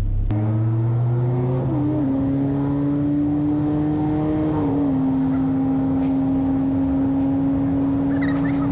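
Engine of a Mazda B-series pickup with Holley Sniper fuel injection, running steadily while driving. Its steady hum drops slightly in pitch twice, about two and five seconds in.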